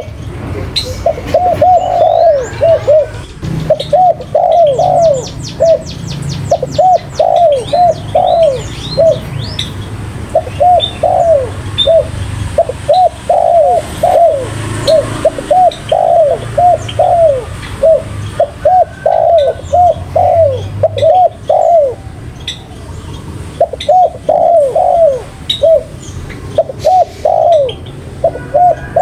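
Spotted dove (tekukur) cooing over and over, in phrases of three or four arching coos that repeat every second or two with only brief pauses. Smaller birds chirp high above it, with a quick trill of chirps a few seconds in.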